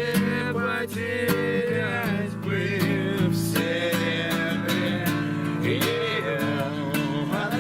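Acoustic guitar music with strummed chords and a wavering melody line over them, in an instrumental stretch between sung lines of the song.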